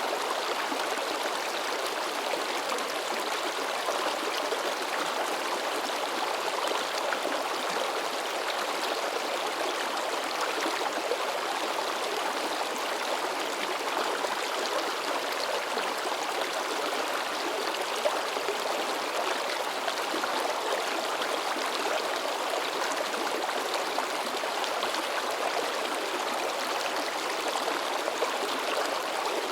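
A babbling river flowing briskly over rocks, its water splashing and gurgling in a steady, unbroken rush.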